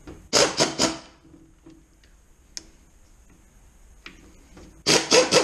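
Hand ratchet clicking in two short quick spells, about a second in and again near the end, as fittings are undone from a gearbox casing.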